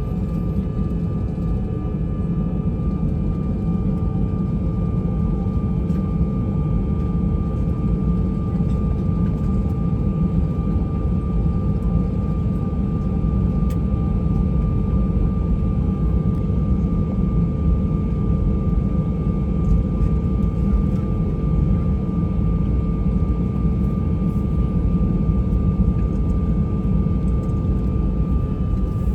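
Airbus A320's IAE V2500 jet engines heard from inside the cabin: a steady low rumble with two steady whining tones, one mid-pitched and one higher.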